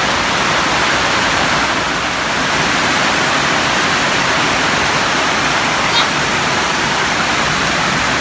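Heavy rain falling in a storm: a loud, steady downpour with no let-up.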